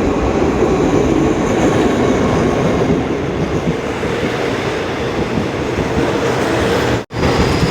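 Passenger train running on the rails, a steady rattling rumble of wheels and carriage. It breaks off for an instant about seven seconds in and comes straight back.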